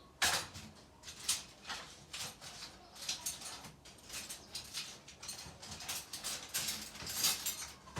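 Packaging of a new fridge being opened and handled: irregular rustling and scraping of cardboard and plastic wrap, several sounds a second.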